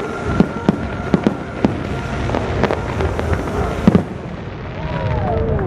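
Aerial fireworks bursting: a quick string of sharp bangs and cracks over a constant low rumble, which stops about four seconds in.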